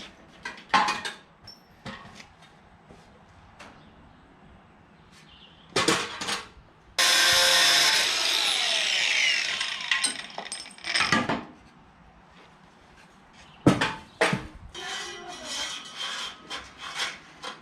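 Workshop tool noise: scattered metal knocks and clanks. About seven seconds in, a power tool runs for about three seconds and falls in pitch as it winds down.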